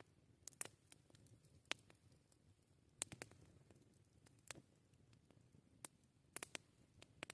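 Wood campfire crackling faintly: sparse, irregular sharp pops and snaps, about a dozen, over a soft low rumble.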